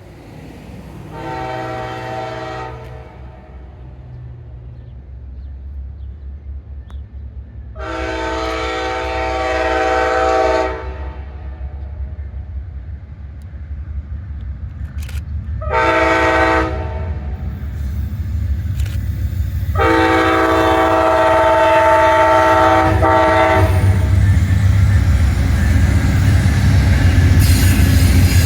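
Amtrak P42 locomotive horn sounding the grade-crossing signal: long, long, short, long. Under it, the low diesel rumble of the two-locomotive train grows louder as it approaches.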